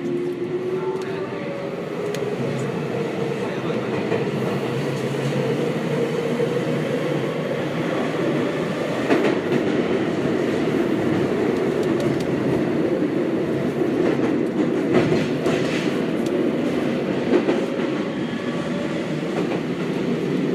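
Seibu 6000 series train with Hitachi GTO-VVVF traction equipment, heard from inside the car. The inverter and motor whine rises in pitch as the train accelerates and fades out about two seconds in. After that the train runs on with steady wheel-on-rail rolling noise and a few clacks over rail joints.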